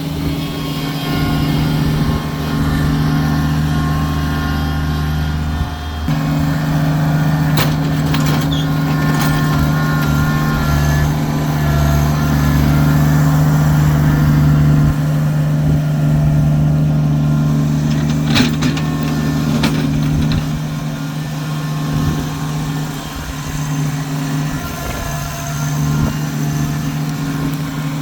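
Kubota tractor's diesel engine running steadily under load, with a few sharp clanks and knocks about a third of the way in and again past the middle.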